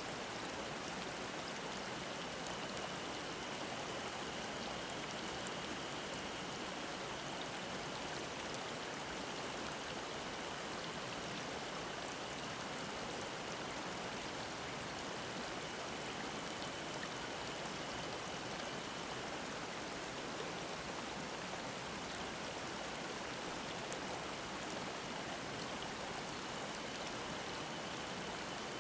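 Mountain stream babbling steadily. A faint, thin, high drone of cicadas runs over the water, drops out about two-thirds of the way through and comes back near the end.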